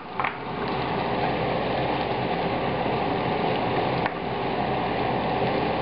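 Sliced onions, garlic and ginger frying in oil in a pan, a steady crackling sizzle. A spatula knocks against the pan briefly twice, soon after the start and about four seconds in.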